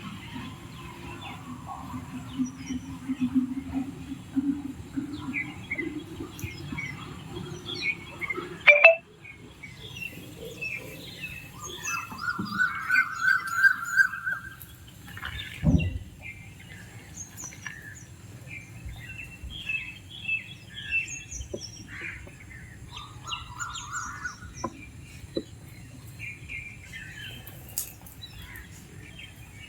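Small birds chirping and twittering throughout, with two sharp knocks, one about nine seconds in and another near sixteen seconds.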